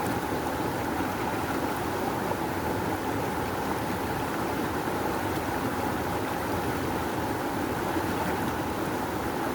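Rushing river water flowing fast over rocks, a steady, unbroken rush of water noise.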